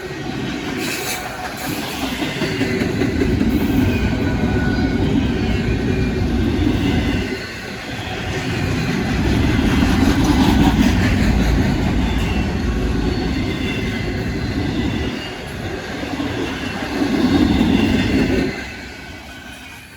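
Freight train rolling past: the rumble and rattle of rail cars on the track. It swells and dips a few times and fades near the end.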